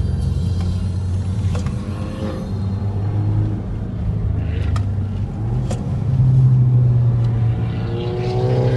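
Volkswagen Golf Mk6 GTI's 2.0-litre turbocharged four-cylinder through its stock exhaust, running with a steady low drone. The drone steps up in pitch about six seconds in and starts to rise as the engine revs near the end.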